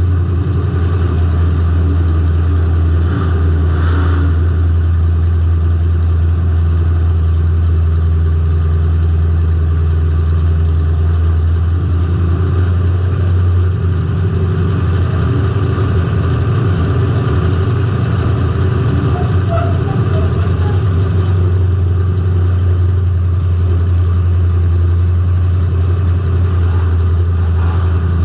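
Car engine running at a steady speed, heard through a camera mounted on the car: a loud, low, even drone that hardly changes.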